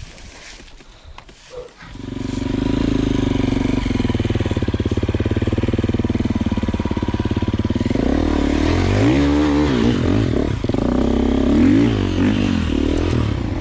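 Enduro dirt-bike engine running. It starts about two seconds in, holds a steady pitch for several seconds, then revs up and down repeatedly.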